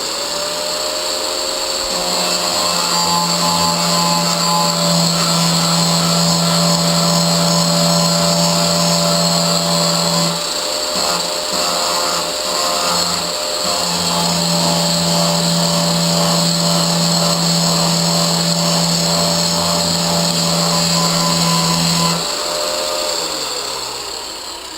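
A 4.5-inch angle grinder with a grinding wheel running and grinding mill scale off mild steel bar stock with a steady whine, easing off for a few seconds near the middle. Near the end it is switched off and winds down, its pitch falling.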